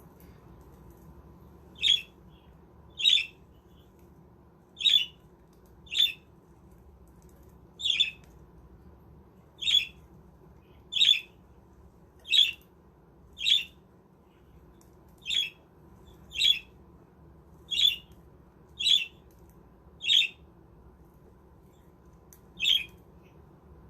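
Budgerigar repeating a short, sharp call about once a second, some fifteen times in a row, starting about two seconds in.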